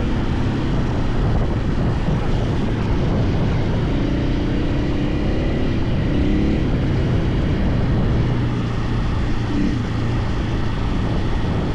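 KTM 450 EXC single-cylinder four-stroke enduro motorcycle engine running under way, its note rising and falling a little with the throttle.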